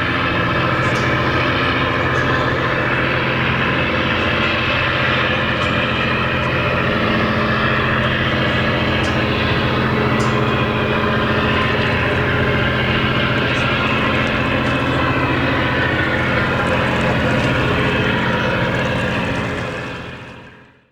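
Tugboat engine running steadily as the tug goes by on the river, a constant drone that fades out near the end.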